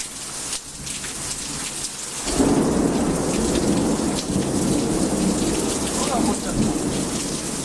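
Steady rushing of falling water, growing louder and heavier about two seconds in.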